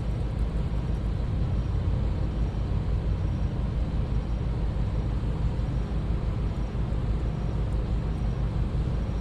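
Steady low mechanical hum of a running motor, even throughout with no distinct clicks or snips.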